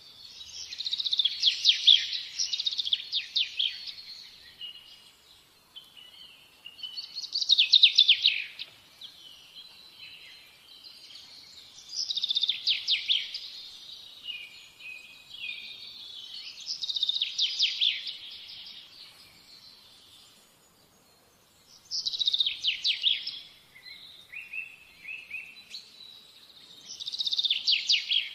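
Songbird singing: six short high-pitched phrases of rapid trilled notes, one about every five seconds.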